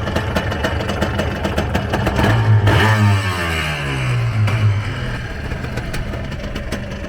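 An engine running with a steady, even beat; about two and a half seconds in it rises sharply, then its pitch falls away over the next two seconds.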